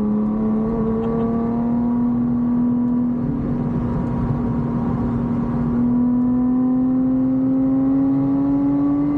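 Lotus Exige 420 Final Edition's supercharged 3.5-litre V6 pulling hard under load, its note climbing slowly and steadily as the revs build in one gear. Heard from inside the cabin.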